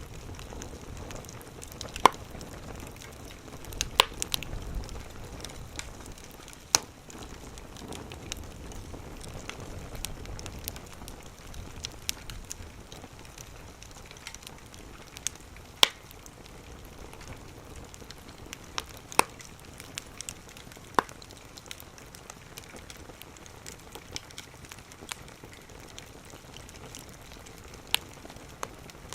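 Firewood burning in a small wood stove: a steady hiss broken by sharp crackles and pops every few seconds.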